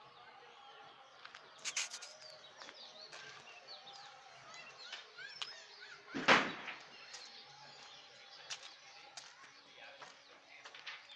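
Birds chirping, with scattered sharp clicks and one loud knock about six seconds in.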